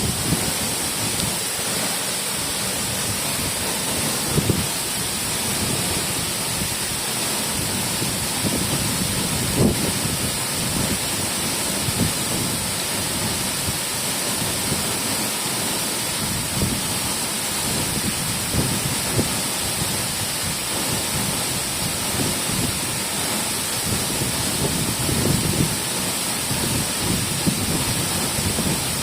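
A waterfall: falling water makes a steady, loud rushing noise, with irregular low thuds mixed in.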